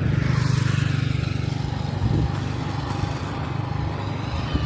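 A small engine running steadily, loudest in the first second and a half and then easing off, with a brief knock about two seconds in.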